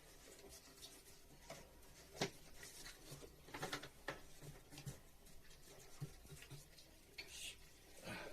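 Faint, scattered light clicks and scratchy rustles from hands handling materials, with one sharper tick a little over two seconds in.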